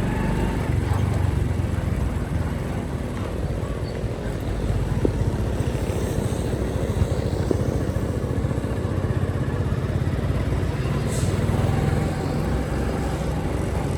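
Motorcycle engine running steadily on the move, with road noise.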